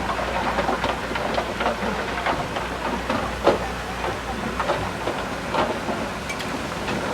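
Komatsu D31P crawler bulldozer working, its engine running under a clatter of irregular metallic clanks and rattles from the steel tracks. The low drone drops away about five seconds in.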